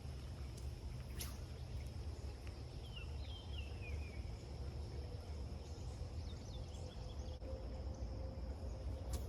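Outdoor creekside ambience: insects droning steadily over a low rumble, with a bird's short run of falling chirps about three seconds in. Two sharp clicks, one about a second in and one near the end.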